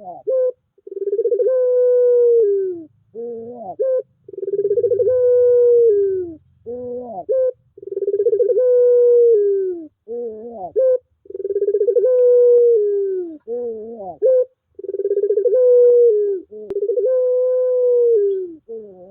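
Puter pelung (domestic collared dove) cooing over and over: about six long, drawn-out calls that sag in pitch at the end, separated by short rising notes.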